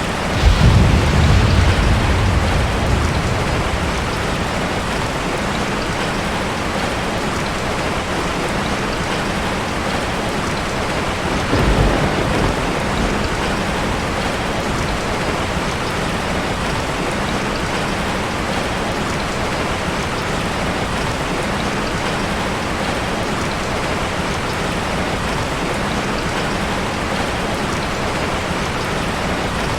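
Heavy rain falling in a steady hiss. A loud roll of thunder rumbles about half a second in and fades over a few seconds, and a weaker rumble of thunder comes around twelve seconds in.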